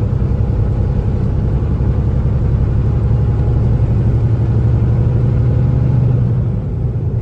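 Kenworth T680 semi-truck's diesel engine and road noise heard inside the cab while driving: a steady low drone whose engine note grows stronger, then eases off about six and a half seconds in.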